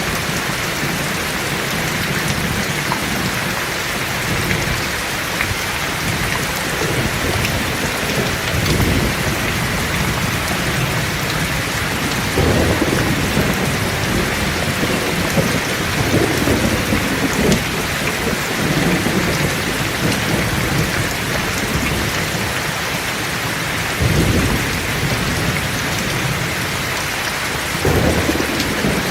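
Heavy rain falling steadily, with rolls of thunder rumbling over it several times, the strongest about halfway through and near the end.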